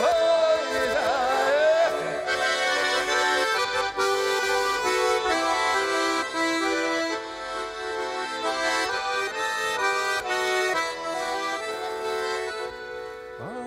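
Accordion playing an instrumental interlude between verses of a Russian folk song: a melody over sustained chords.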